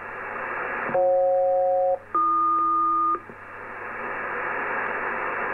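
SELCAL selective-calling tones sent over HF single-sideband radio: two bursts of about a second each, a short gap apart, each burst a pair of steady tones sounding together, over steady shortwave radio hiss. It is a SELCAL check that rings the aircraft's cockpit call, and the crew reports it good.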